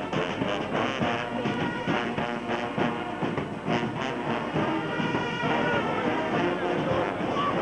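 Band music playing steadily, with brass instruments carrying held notes over a regular beat.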